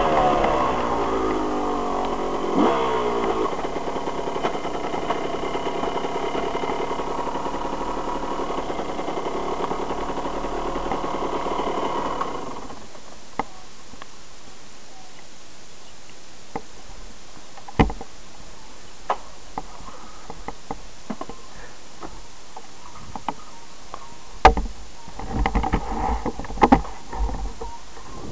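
KTM EXC 125's two-stroke single-cylinder engine dropping from revs and then running steadily at low revs, cut off about twelve seconds in. After that, scattered clicks and knocks, with some rustling near the end.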